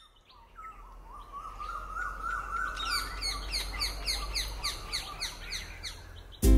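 Birdsong fading in: a warbling call, joined about three seconds in by a fast run of repeated downward chirps, three or four a second. Music cuts in suddenly at the very end.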